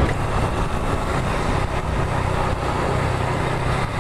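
Small street motorcycle's engine running steadily while riding, with wind rushing over the microphone.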